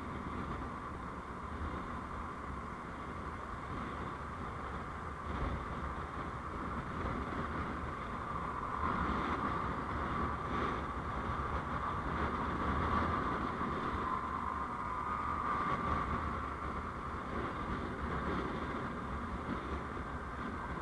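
Steady running noise of a road vehicle on the move, picked up by a dashcam: a low rumble of engine and tyres with a hiss that grows louder for several seconds in the middle, then eases.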